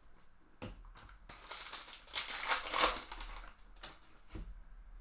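A plastic trading-card pack wrapper crinkling as it is torn open and handled, loudest in a dense burst about two seconds in. A few light clicks come before it, and a soft knock follows near the end.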